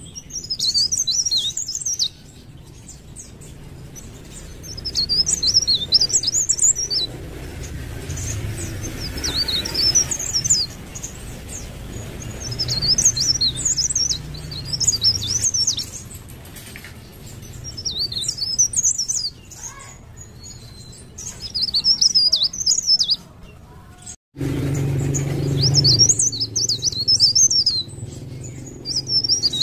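Cikrak daun (mountain leaf warbler) singing: repeated phrases of fast, high, jumbled twittering, each a couple of seconds long with short pauses between. The sound cuts out for a moment near the end.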